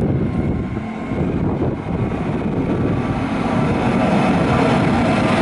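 Siemens Eurosprinter class 189 electric locomotive hauling a container freight train through the station, its rumble growing louder as it nears, with a steady hum coming up in the second half.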